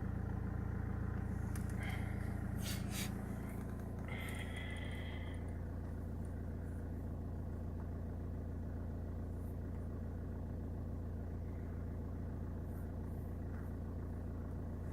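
Opel Y22DTR 2.2-litre four-cylinder turbodiesel idling steadily, its note shifting slightly about four seconds in, with a few light clicks shortly before.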